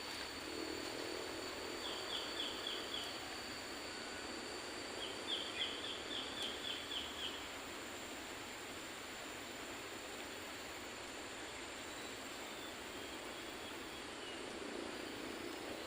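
Forest ambience: a steady hiss with a constant high insect drone, and a bird giving two runs of quick repeated chirps, about four a second, the second run longer.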